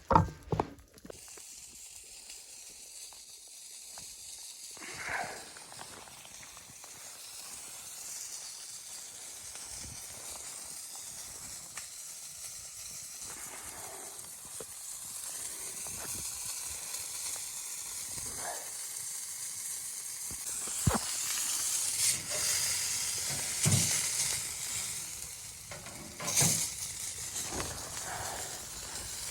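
Sizzling hiss like food frying in a hot pan, growing louder through the second half, with a sharp knock at the start and a few knocks and clatters later.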